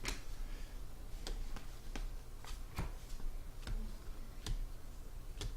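Trading cards being handled and flipped through by hand during a pack opening: irregular light clicks and snaps of card stock, over a low steady hum.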